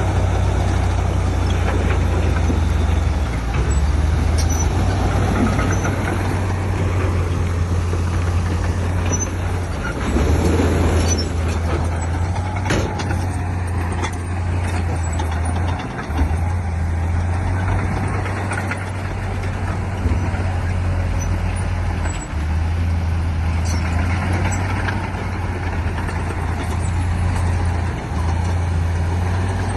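Heavy diesel earthmoving machinery running under load, a steady deep engine drone that briefly dips a few times, with scattered knocks.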